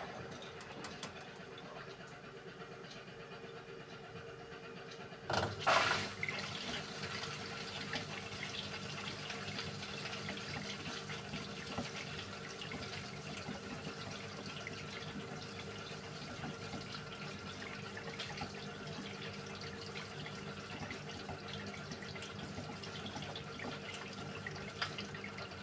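Beko WMY81283LMB2 washing machine taking in water. A brief loud surge comes about five seconds in, then water runs steadily into the drum.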